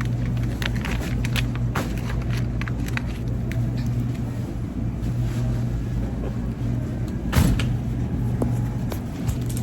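Steady low hum of a grocery store's refrigerated cases and ventilation, with scattered small clicks and rustles of packages being handled, and one sharper knock about seven seconds in.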